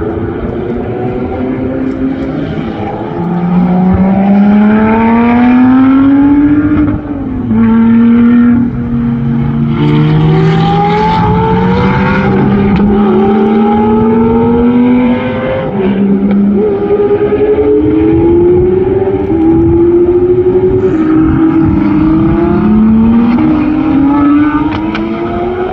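Supercar engine at hard acceleration, its pitch climbing and then dropping sharply at each gear change, several upshifts in a row.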